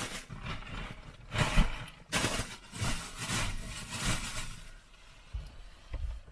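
Bags being handled and stowed in the car: a run of rustling and scraping with a few soft thumps, quieter in the last couple of seconds.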